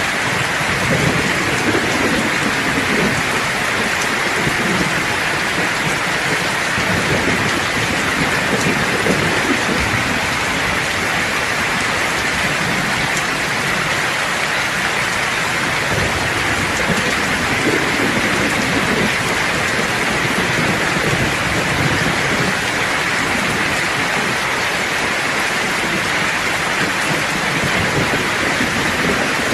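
Steady, heavy rain hissing without a break. Low thunder rumbles swell and fade beneath it every few seconds.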